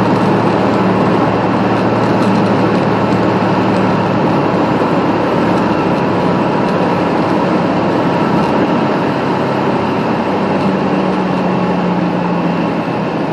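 Piper Comanche 250's six-cylinder piston engine and propeller droning steadily, heard from inside the cabin, with a dense rushing noise over the engine hum.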